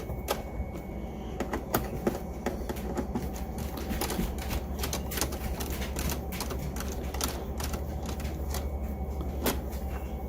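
Irregular clicking and rattling of a Phillips screwdriver driving the screws of a Roomba i7's plastic bottom cover, over a steady low hum.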